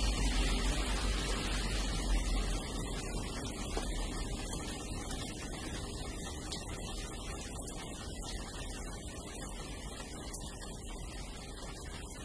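Steady rain noise during a thunderstorm, with a low rumble in the first two seconds or so, the whole fading out gradually.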